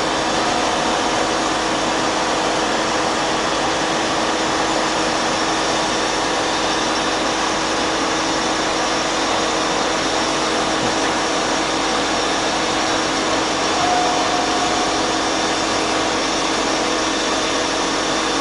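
Cosen SH-600DM semi-automatic bandsaw running through a cut, a loud, steady machine hum with a few held tones, on the cycle where the saw cuts to the bottom and then switches off.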